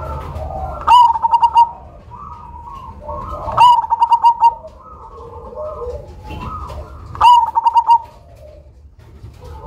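Zebra dove (perkutut) of the black cemani variety cooing. It gives three loud phrases about three seconds apart, each a sharp opening note followed by a quick run of clipped coos, with softer cooing between the phrases.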